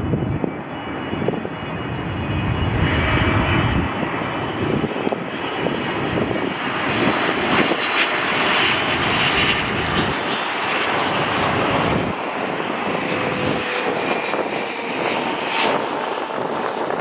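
Jet engines of a Boeing 777 flying past: a steady rushing jet noise with a faint, slowly falling whine. Wind buffets the microphone in the first few seconds.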